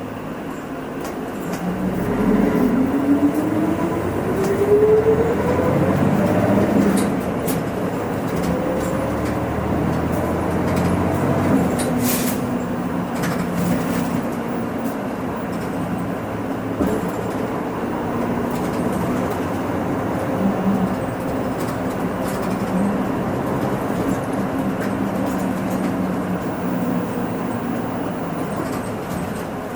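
Hino Rainbow II bus's diesel engine heard from inside the passenger cabin. The engine's pitch rises steadily for about five seconds as the bus accelerates, then it settles into steady running.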